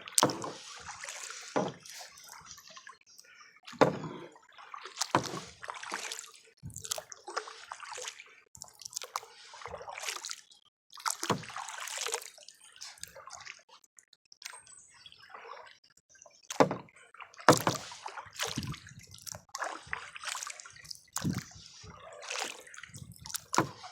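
Kayak paddle blades dipping into the lake water, sloshing and splashing with drips, in uneven strokes about one a second.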